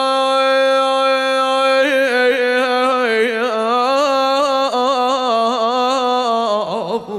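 A man chanting an Arabic Shia lament for Karbala, holding one long steady note for about two seconds, then winding through wavering melodic ornaments on the same drawn-out syllable, trailing off near the end.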